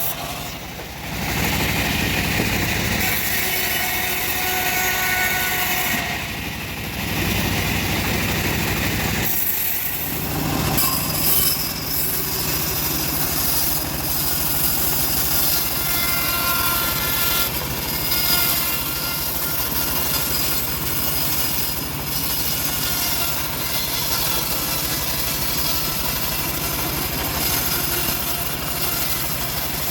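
Homemade engine-driven bandsaw mill running steadily while sawing a log, its pitch and level dipping briefly three times in the first ten seconds.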